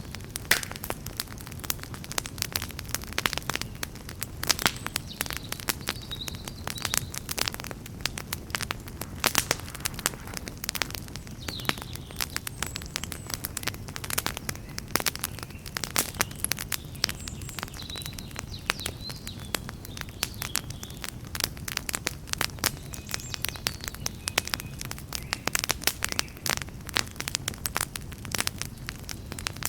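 Campfire burning, with dense, irregular crackles and pops of burning wood over a steady low rush of flame.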